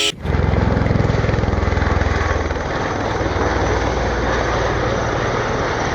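Helicopter flying, a steady rotor chop with turbine and engine noise that eases off slightly after a couple of seconds.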